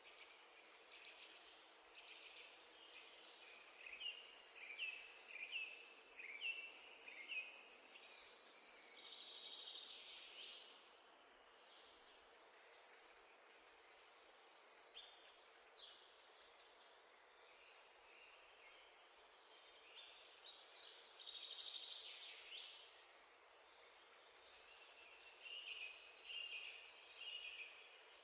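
Faint birds chirping over a steady hiss, with quick runs of short chirps about four seconds in and again near the end.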